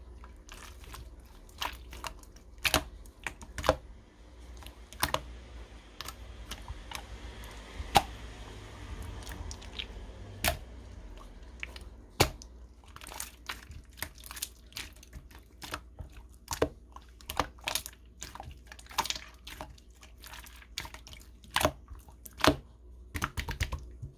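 Clear slime being played with by hand, giving many irregular sharp pops and clicks as trapped air bursts.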